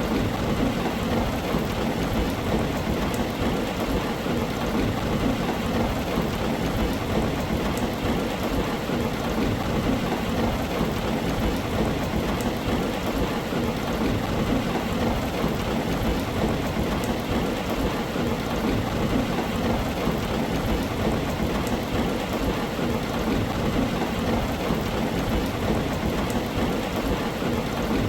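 Heavy rain falling steadily on a tin roof: a dense, even hiss with a strong low rumble beneath it.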